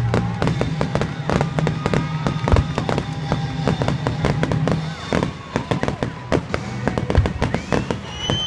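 Fireworks display: rapid, dense crackling and banging from gold crackle bursts and comets fired low. Near the end a shell goes up with a rising whistle that then holds its pitch.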